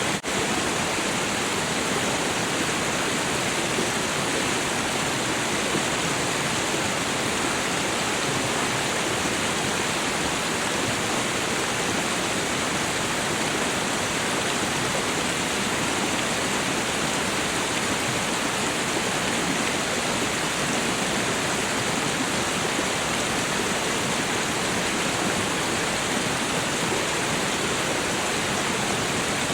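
Waterfall: water rushing steadily as an even, unbroken wash of noise, with a momentary dropout just after the start.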